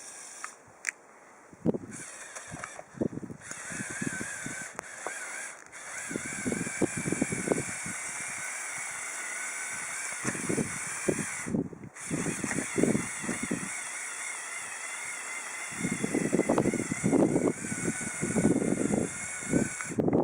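Electric motors and gear train of a Lego Technic 8275 motorized bulldozer whining with a slightly wavering pitch, starting a few seconds in. Irregular crunching scrapes, denser near the end, as it works through snow.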